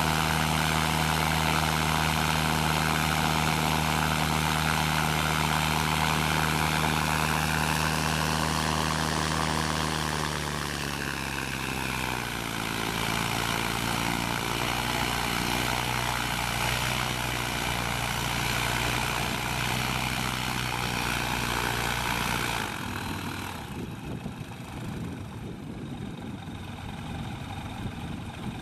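Ultralight aircraft engine and propeller running at high revs during a ground run-up to check the fine-pitch setting; about ten seconds in the revs come down and it runs on steadily at a lower speed. Near the end the engine sound cuts off abruptly, leaving a fainter uneven rumble.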